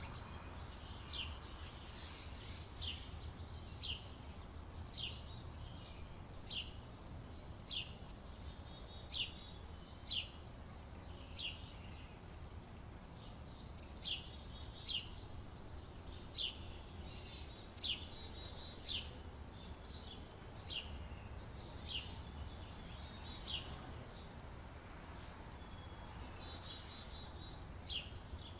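Small birds chirping: short, sharp descending chirps about once a second, with a few spells of quicker twittering. A low steady rumble runs underneath.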